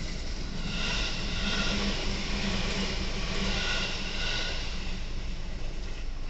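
Train passing a level crossing, a steady rumbling run-by with a higher ringing sound that swells twice, strongest through the middle.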